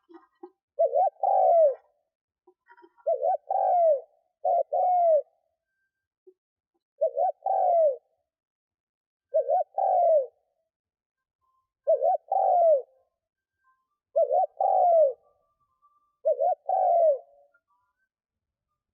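Spotted dove cooing in its repeated song, a decoy male's call. There are eight phrases about two seconds apart, each one or two short coos followed by a longer falling note.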